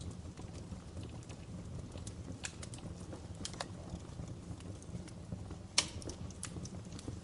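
Wood fire crackling in a fireplace: irregular pops and crackles over a steady low rumble of the flames, with one sharp, louder pop a little before six seconds in.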